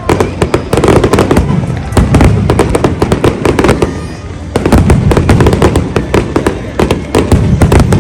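Large fireworks display: a dense, rapid barrage of shell bursts and crackling bangs over a heavy rumble, easing briefly about four seconds in before another loud volley.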